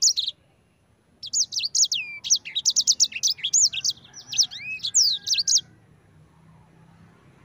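Sanger (edel sanger) finch singing a rapid, high-pitched twittering song of quick up-and-down sweeping notes. A brief bit of song right at the start, then about a second in, a long, dense phrase lasting about four seconds before the bird stops.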